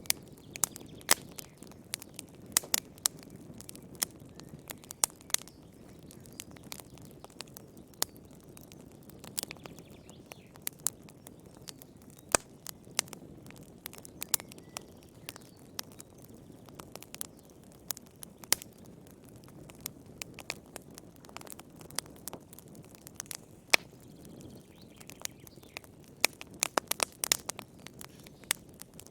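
Wood fire burning in a fireplace: irregular sharp crackles and pops over a low steady hiss, coming thicker near the end.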